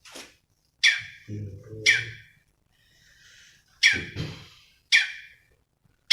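Cucak cungkok songbird calling: short, sharp, loud notes that sweep downward, repeated roughly once a second with a brief pause midway. Lower, rasping notes come between some of them.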